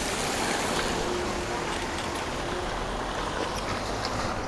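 Steady rain falling: an even hiss of water with no distinct events. A faint steady hum sounds for about a second and a half in the first half.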